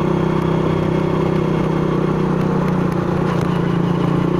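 Honda Astrea motorcycle's small single-cylinder four-stroke engine running steadily under way, its pitch shifting slightly about three seconds in.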